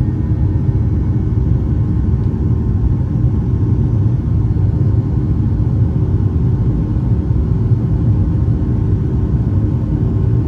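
Steady, loud cabin rumble of a Boeing 737-800 in flight, from its CFM56-7B jet engines and the airflow, heard from inside the passenger cabin.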